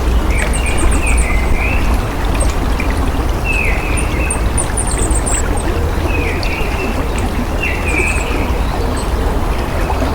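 Steady running water, with birds calling over it: short calls repeated every second or two and fainter, higher, rapid chirps.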